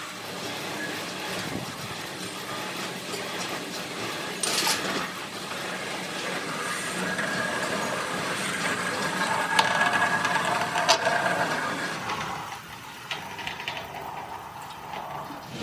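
Metal workshop machinery running, with a sharp metallic hit about four seconds in and a few clicks near the middle.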